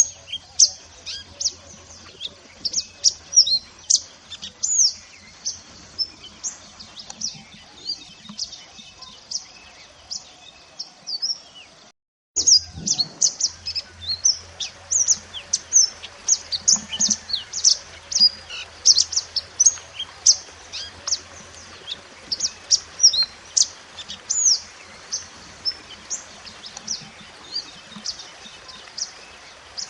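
Masteran recording of a mantenan gunung, the wild songbird known by that name in Indonesian birdkeeping: a fast, continuous run of high, short chirps and trills. The sound cuts out for a moment about twelve seconds in, where the recording restarts, with a faint low hum underneath.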